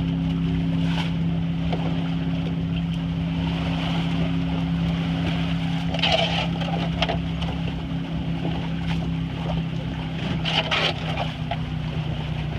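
A boat's engine running with a steady low drone under wind and water noise, with a few short, louder knocking and splashing noises about halfway through and again near the end.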